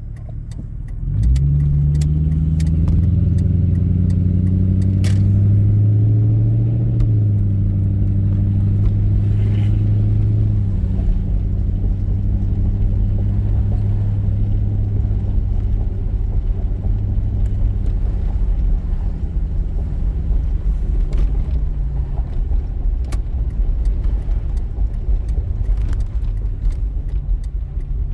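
Exhaust of a 1996 Mercury Grand Marquis's 4.6-litre V8 through a straight-piped single exhaust with no resonator and the rear catalytic converter removed. The engine note rises about a second in, holds there for several seconds, eases back about ten seconds in, and then runs as a steady deep rumble.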